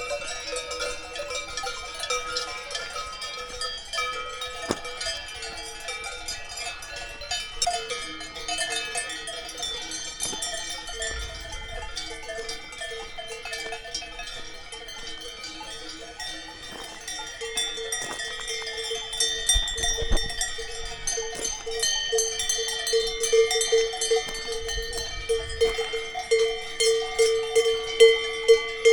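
Bells of grazing cows ringing and clanking, many bells at different pitches overlapping irregularly, growing louder in the second half as the bells come closer.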